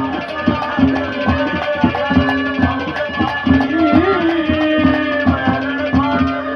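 Instrumental break in Haryanvi ragni folk music: a hand drum plays a fast rhythm whose bass strokes bend up in pitch, under held melody notes.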